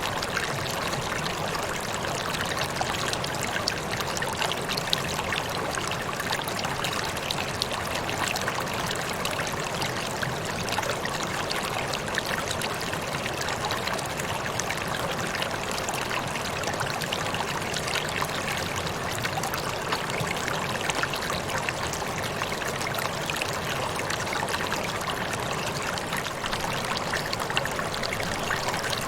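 Waterfall splashing and rushing steadily, an even spray of water noise with fine splashy crackle.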